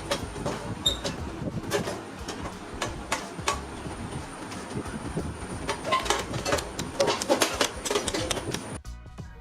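Irregular metallic clicks, knocks and rattles from handling a metal-bodied extension cord reel while its cover is fitted and screwed closed. Music comes in near the end.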